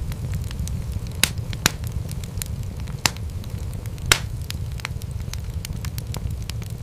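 Wood fire crackling: frequent small pops and snaps over a low steady rumble, with a few louder pops, the loudest about four seconds in.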